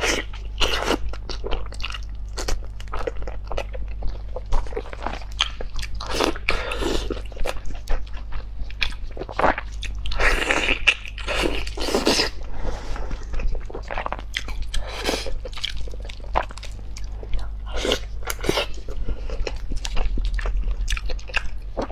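Close-miked mouth sounds of a person eating braised oxtail: wet chewing and lip smacks in quick irregular clicks, with a few longer stretches of noisy sucking at the meat near the middle.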